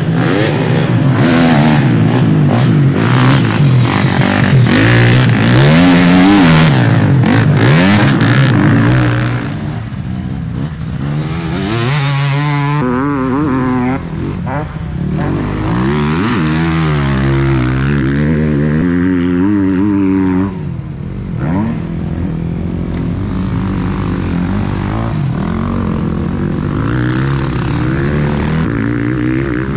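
Motocross motorcycle engines revving up and down as bikes ride the track, the pitch rising and falling again and again. Loudest for the first nine seconds or so.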